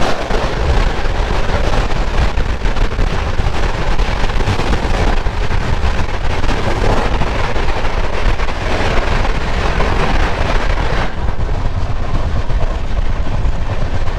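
Double-decker express train running at speed: a loud, steady rush of noise over a heavy rumble. The higher hiss eases about eleven seconds in.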